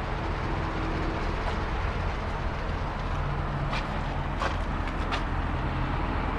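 Chevrolet 2500 truck engine idling steadily, with a few light clicks about four and five seconds in.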